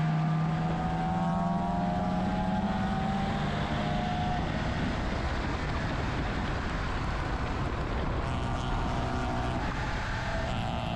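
BMW E30's engine pulling under load, its pitch rising steadily for about four and a half seconds, then giving way to a steady rush of wind and road noise.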